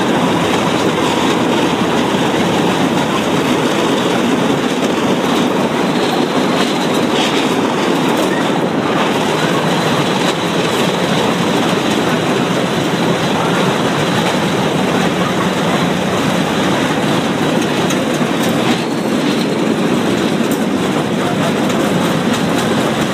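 Steady running noise of a metre-gauge electric railcar heard from the driver's cab as it travels along the track, an even, unbroken rumble of wheels on rails.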